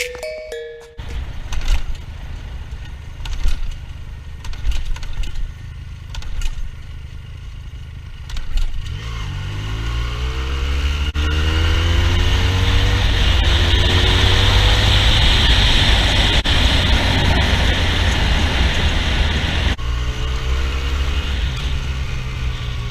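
Kawasaki motorcycle engine pulling up through the gears: over the first few seconds it runs low and rough, then from about a third of the way in it revs up in several rising sweeps, one per gear, and settles into a loud steady run. Near the end the revs drop and it climbs again.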